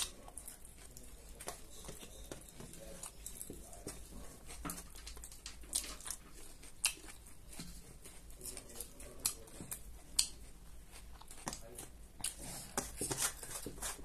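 Close-up mouth sounds of chewing singju, a crunchy salad of raw shredded cabbage and dry instant noodles: a run of irregular crisp crunches.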